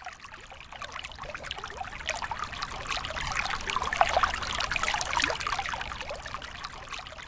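Bubbling, trickling water: a dense crackle of small pops that builds to its loudest about four seconds in, then eases off toward the end.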